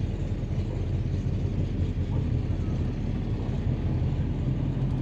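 1957 Chevrolet 210 running at low speed, a steady engine and road rumble.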